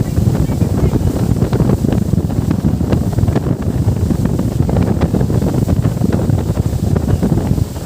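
Steady wind buffeting the microphone on a moving boat, with water sloshing and splashing against the hull.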